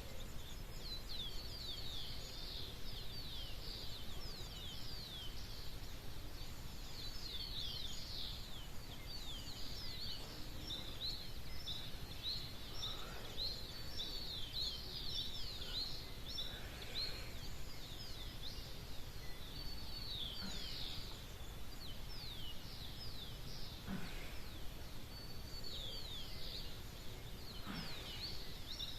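Dawn chorus of many small birds chirping rapidly and continuously, a dense stream of quick high-pitched downward-sliding notes, over a steady low background rumble.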